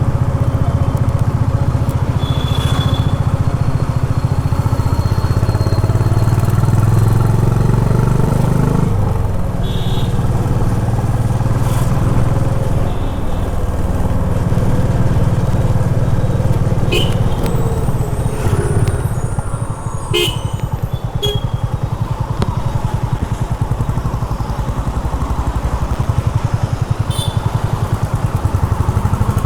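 Honda H'ness CB350's air-cooled single-cylinder engine running as the motorcycle rides through city traffic. The engine note swells for a few seconds, then eases off a little past the middle. A few short high beeps from traffic cut in along the way.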